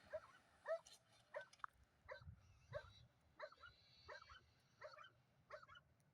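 A dog yipping and whimpering faintly: short, high calls that fall in pitch, repeated about twice a second.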